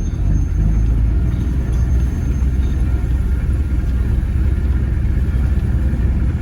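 A loud, steady low rumble with no breaks.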